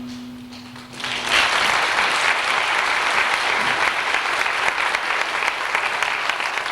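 The last held note of a song fades out, then an audience breaks into applause about a second in and keeps clapping steadily.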